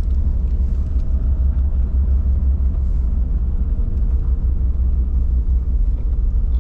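Steady low rumble of a moving vehicle, with a faint steady hum riding above it.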